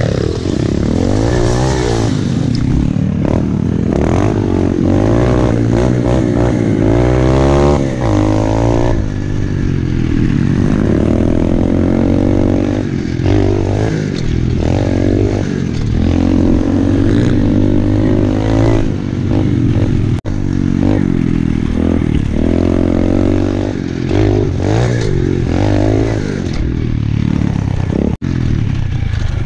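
Pit bike engine revving up and down over and over as it is ridden around a dirt trail, the pitch rising and falling with the throttle, with some clattering.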